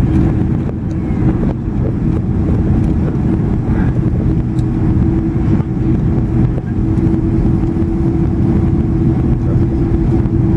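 Cabin noise of a Boeing 767-300 jet airliner on its landing approach: a steady rumble of engines and airflow with a constant hum, which grows slightly stronger in the second half.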